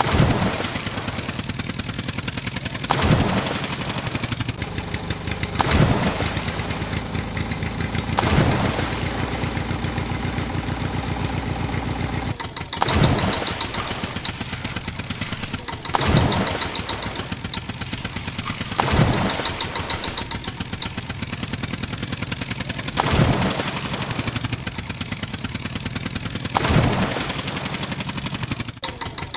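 Tractor engine running with a fast even chug, swelling louder in short surges about every two to three seconds.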